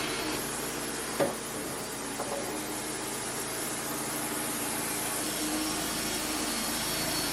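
An engine running steadily, with a sharp knock about a second in and a lighter one a second later.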